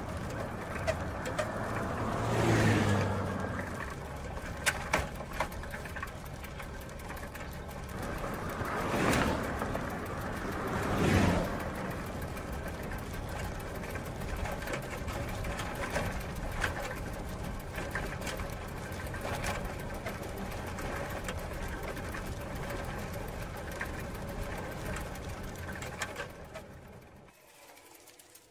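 Bicycle drivetrain running: chain and freewheel with a fast, steady mechanical clicking. Three whooshes swell and fall away over it, about two, nine and eleven seconds in. The whole sound fades out near the end.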